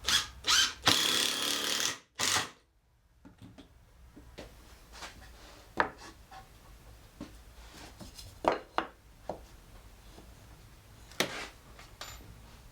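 A power drill running in two short pulses and then for about a second, followed by scattered light clicks and knocks of wooden parts being handled.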